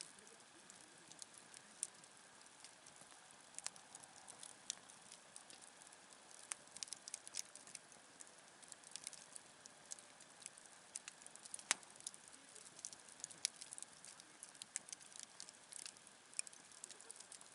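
Wood campfire crackling: irregular sharp pops and snaps, several a second, with one louder snap about twelve seconds in.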